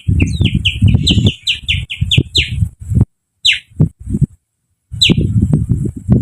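A person imitating a sooty-headed bulbul (kutilang) song by whistling through the fingers: a quick run of short whistles that each drop in pitch, about three a second, then a pause and two single falling whistles. A low, rough rushing noise sounds under the runs of whistles.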